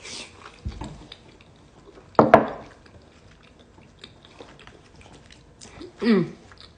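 A person eating dumplings close to the microphone: chewing and wet mouth sounds, with a short louder bite or mouth sound about two seconds in and a brief voiced sound falling in pitch near the end.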